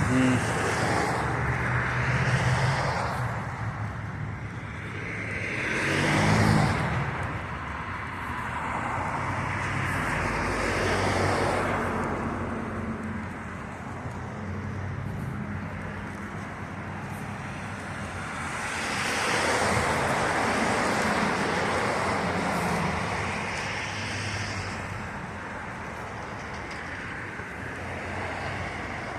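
Street traffic: cars passing one after another over a steady road hum, swelling and fading, loudest about six seconds in and again around twenty seconds.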